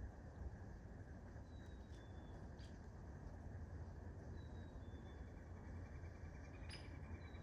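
Faint outdoor ambience under a steady low rumble: a bird repeats a short, high two-note whistle, the second note slightly lower, about every three seconds. A couple of single faint taps sound, one near the middle and one near the end.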